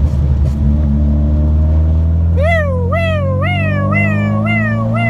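VW Golf Mk1's 2-litre engine running under steady load, its note rising slowly. About halfway in, an emergency-vehicle siren starts yelping, its pitch sweeping up and down about twice a second.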